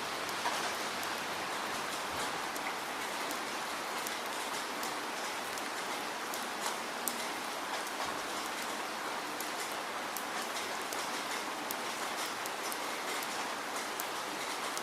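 Steady rainfall: an even hiss of rain with many small drops ticking on a hard surface.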